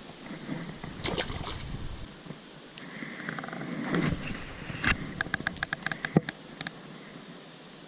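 Knocks and handling noises in a kayak as fishing gear is worked, with a quick run of sharp, evenly spaced clicks about five seconds in.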